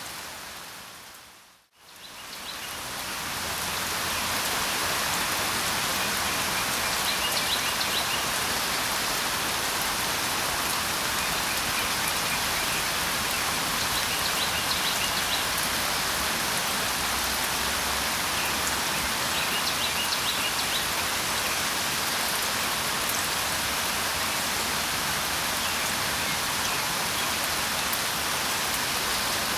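Steady rain falling, with faint short bird chirps now and then. The rain fades out to silence about two seconds in and swells back up over the next two seconds.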